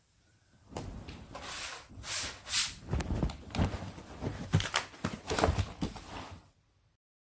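Bedding and papers rustling and being handled close to the microphone, with irregular soft knocks, then cutting off suddenly near the end.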